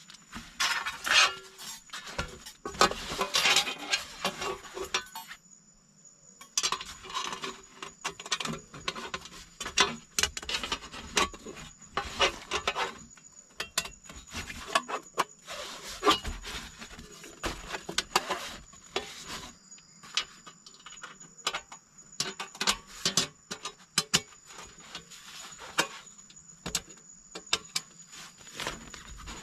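Irregular clinking, knocking and rubbing of small objects being handled, with a brief pause about five and a half seconds in, over a thin, steady, high insect drone.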